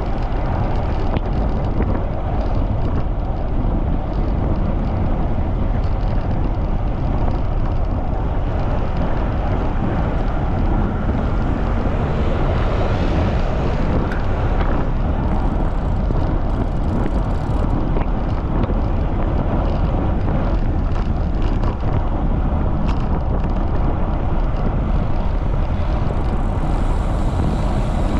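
Steady wind noise buffeting the microphone of a camera on a moving bicycle in strong wind.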